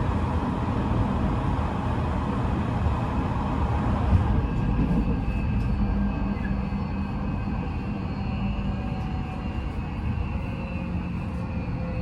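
Odakyu 5000 series train heard from inside a motor car: traction motors and Mitsubishi full-SiC VVVF inverter over a steady rumble of wheels on rail. From about five seconds in, the motor and inverter tones fall slowly in pitch as the train slows for its next station stop, with a few light clicks.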